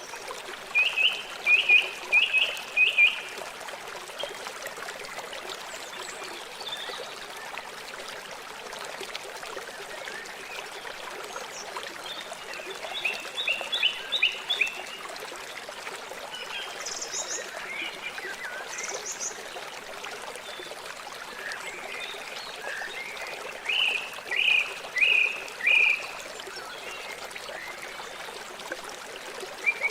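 River water flowing with a steady rushing trickle. Three times, near the start, in the middle and near the end, an animal gives a loud run of four or five short, high, falling chirps.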